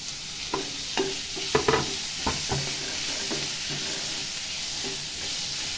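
Chopped onion, garlic and tomato sizzling in hot oil in a nonstick frying pan, with a few sharp knocks in the first couple of seconds as the tomato is tipped in from a chopping board and stirred with a metal slotted spoon.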